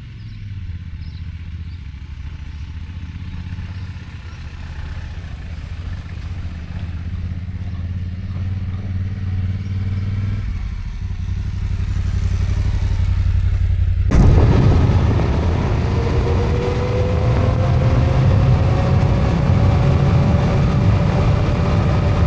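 Yamaha Ténéré adventure motorcycle engine running on the move, a steady low hum growing gradually louder. About two-thirds of the way through, the sound jumps abruptly louder with rushing noise and a slowly rising whine as the bike picks up speed.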